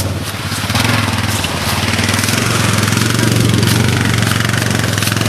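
ATV engine running steadily at idle close by, with a noisy wash above the engine note.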